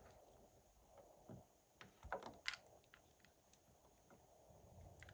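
Near silence with a few faint clicks and taps, a little past one second in and again around two to two and a half seconds in.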